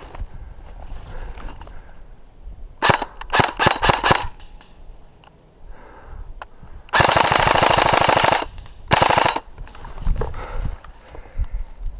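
Airsoft rifle fire: a quick string of about six shots about three seconds in, then a long fully automatic burst of about a second and a half, and a short second burst right after it.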